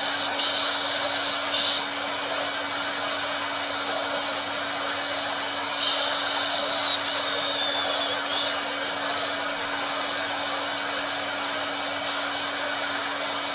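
Hair dryer running steadily: an even rush of blown air over a low, constant motor hum. Its hiss brightens briefly a few times.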